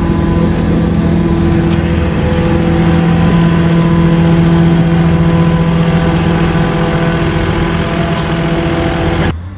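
Koenigsegg Jesko's twin-turbo V8 running at steady revs: a steady engine drone that swells slightly in the middle and cuts off suddenly near the end.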